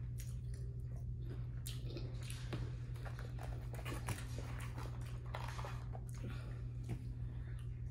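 Close-miked chewing and wet mouth sounds of a person eating a chicken nugget, with irregular small clicks and smacks, over a steady low hum.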